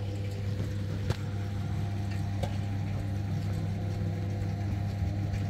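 A steady low machine hum, like a running motor, with one sharp click about a second in.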